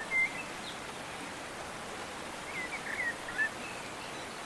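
Small birds chirping in short calls, once just after the start and in a cluster about two and a half to three and a half seconds in, over a steady outdoor hiss.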